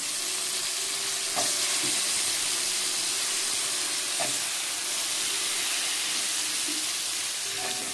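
Hot oil sizzling steadily in a frying pan with diced potatoes, carrots, onion and green chillies frying in it.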